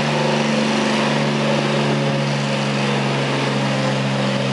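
Oliver 1655 tractor's engine running hard and steady under load, pulling the weight sled down the track.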